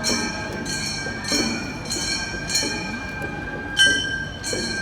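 Kane, the small hand-held brass gongs of Gion-bayashi festival music, struck in a steady rhythm of about one and a half strokes a second, each stroke ringing on, with one stronger stroke a little before the end.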